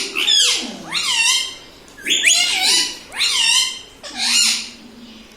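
Indian ringneck parrot calling: about five drawn-out, high, cat-like calls roughly a second apart, each sliding down in pitch.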